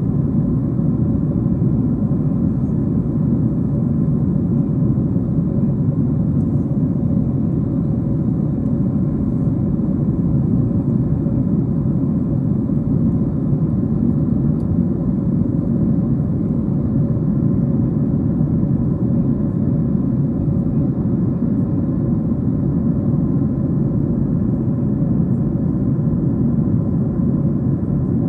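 Steady cabin rumble inside a Boeing 737-700, from the airflow and its CFM56-7B engines, with a faint steady hum over it.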